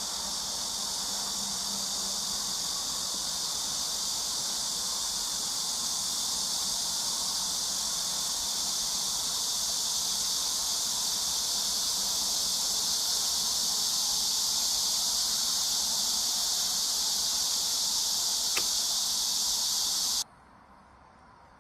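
Steady, high-pitched insect chorus that stops suddenly near the end, with one faint click shortly before it stops.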